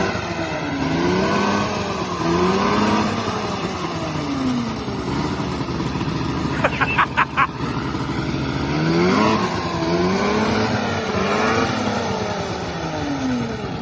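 1994 Yamaha VMAX 600 snowmobile's two-stroke engine revving up and falling back again and again, its pitch rising and dropping in repeated swells. About seven seconds in, five short high-pitched chirps cut through.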